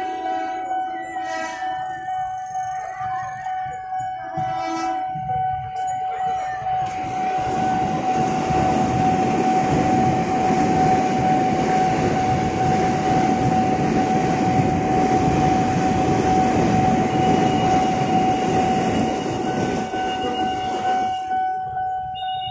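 KRL Commuter Line electric train passing through a level crossing: a loud rumble of wheels on rails builds about seven seconds in and fades near the end. A steady tone from the crossing warning signal sounds under it, and there are pitched horn-like sounds in the first few seconds.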